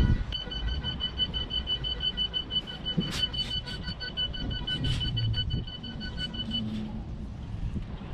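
A truck's electronic warning beeper sounds a high, quick run of short beeps, then stops about six and a half seconds in. A low engine rumble runs underneath.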